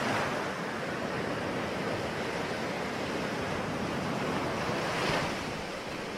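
Ocean waves breaking and washing on the shore in a steady surf wash, with a wave swelling louder at the start and again about five seconds in.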